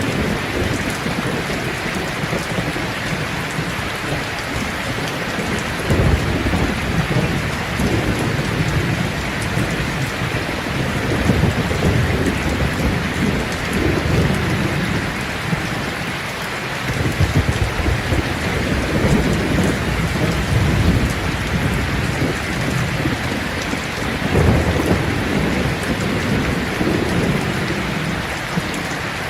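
Steady heavy rain falling on a surface. Low rolls of thunder swell and fade several times through it.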